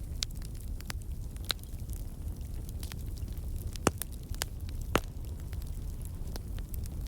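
Wood fire burning in a fireplace: a steady low rumble of flames with scattered crackles, and two louder pops about a second apart around the middle.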